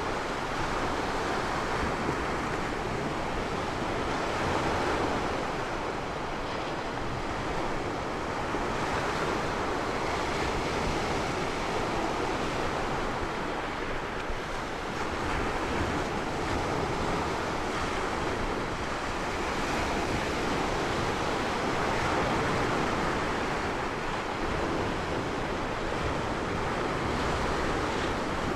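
Ocean waves washing in continuously, swelling and easing every several seconds, with some wind on the microphone.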